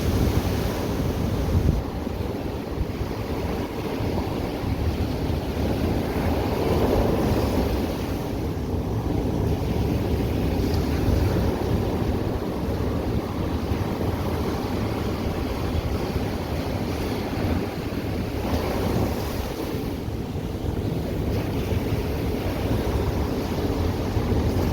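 Ocean waves breaking and washing on a beach, with swells every few seconds, mixed with wind buffeting the microphone.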